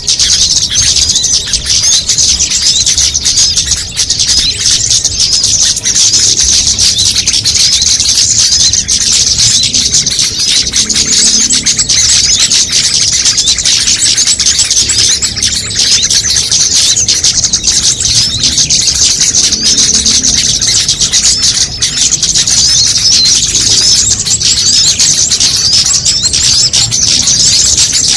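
Dense, unbroken chorus of many small songbirds chirping and trilling at once, high-pitched and loud: a mixed bird-lure (pikat) recording of small-bird calls layered together to draw birds in.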